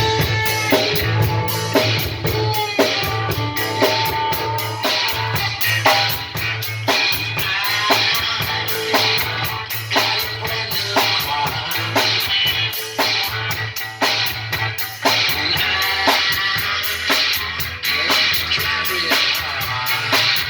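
A rock and roll band playing: a drum kit keeps a steady beat under electric guitar, with no singing yet.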